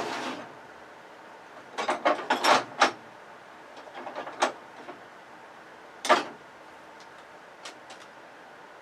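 Irregular clicks and clattering knocks from tools and hard plastic and metal television parts being handled during disassembly. There are several in quick succession about two seconds in, a single loud knock about six seconds in, and faint taps near the end.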